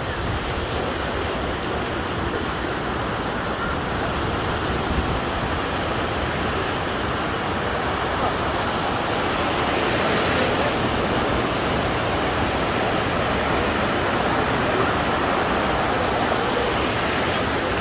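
Busy beach ambience: a steady wash of Mediterranean surf with the voices of a crowd of beachgoers blended in, swelling a little about ten seconds in.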